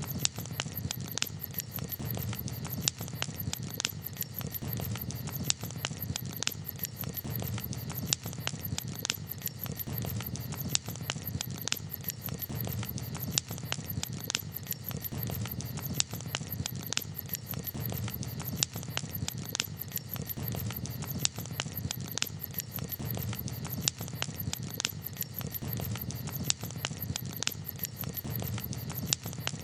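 Campfire crackling: frequent sharp, irregular pops and snaps over a steady low rumble of burning wood.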